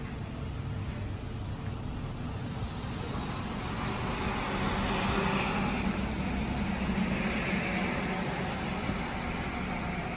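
A road vehicle passing: its noise swells about halfway through and eases near the end, over a steady low rumble.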